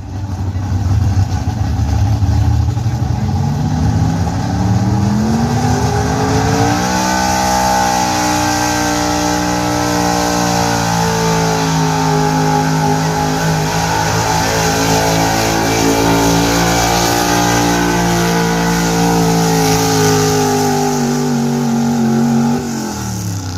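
1979 Ford F-250's gas engine at full throttle, pulling a weight-transfer sled. The revs climb over the first several seconds and hold high, sag slowly as the sled's load builds, then drop away sharply near the end.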